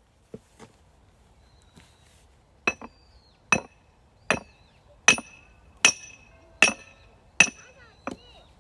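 Repeated hammer blows on metal, each with a short bright ring. A few scattered strikes come first, then a steady rhythm of about one blow every three-quarters of a second.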